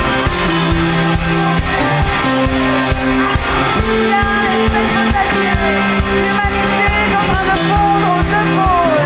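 Live rock band playing an instrumental passage: a steady drum beat under held bass notes that change every second or so, with sliding lead lines above.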